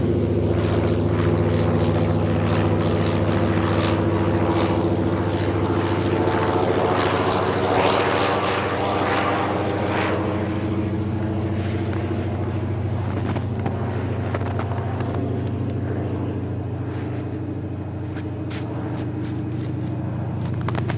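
Low engine drone of an aircraft flying over, steady throughout with a slight drift in pitch, easing off a little later on.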